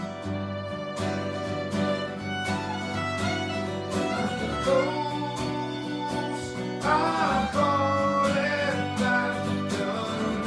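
Live folk band music: a fiddle playing the melody over a strummed guitar.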